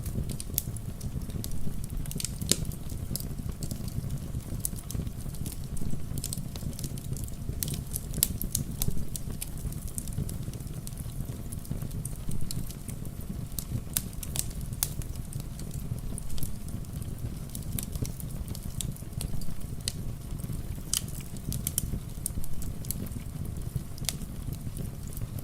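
Wood fire crackling, with frequent sharp, irregular pops and snaps over a steady low rumble, along with gentle rain patter.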